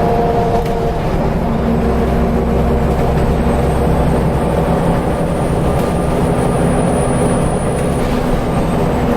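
Scania L94UB Wright Solar single-decker bus heard from on board while under way: the diesel engine and ZF automatic gearbox run steadily, with a few steady tones over the engine hum.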